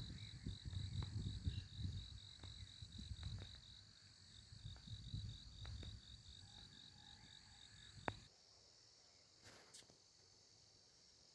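A cricket chirping steadily, a high pulsed chirp about four times a second, over wind rumbling on the microphone. Both stop abruptly about eight seconds in, leaving a faint quiet background.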